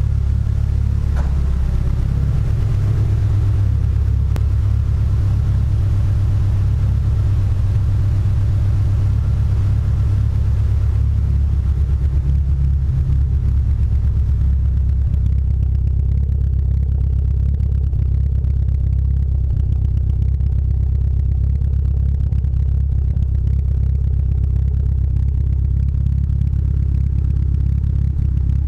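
Mitsubishi Lancer Evolution VIII's turbocharged 2.0-litre four-cylinder engine running at a steady speed with a low, uneven rumble. The owner puts this down to a misfire on 91-octane fuel.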